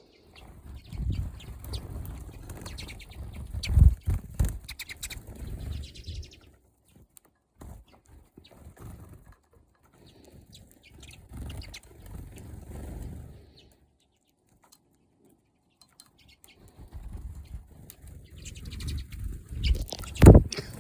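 Small finches (redpolls, pine siskins and crossbills) fluttering their wings close by with brief chirps, in uneven bursts. The loudest flutters come about four seconds in and near the end, with a quiet spell in the middle.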